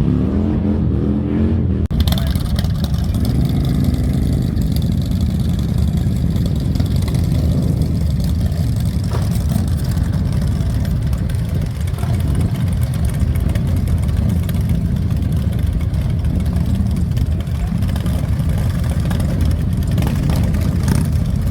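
Motorcycle engines running and revving, heavy and low. The sound changes abruptly about two seconds in.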